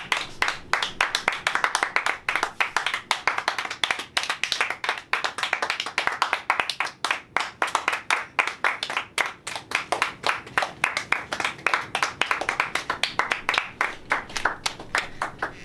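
Hand clapping from a small group of people: fast, uneven claps, many a second, running on steadily and stopping at the end.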